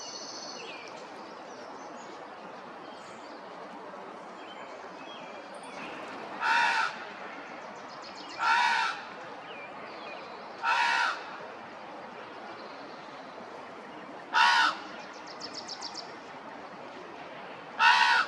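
A bird calling loudly five times, each call about half a second long and two to four seconds apart. Fainter chirps and short rapid trills sound between the calls, over a steady background hiss.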